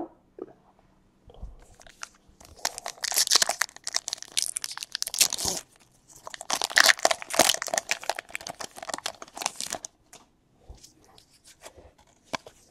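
Trading-card pack wrappers being torn open and crinkled, in two bursts of a few seconds each, with lighter handling clicks between and after.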